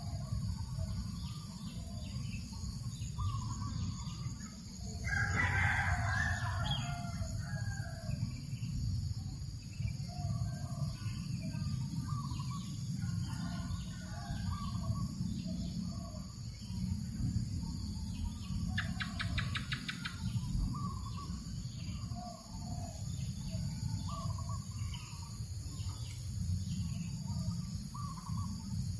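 A rooster crowing once, about five seconds in, the loudest sound here, over scattered small bird chirps and a rapid trill about nineteen seconds in. A steady low rumble of breeze on the microphone runs underneath.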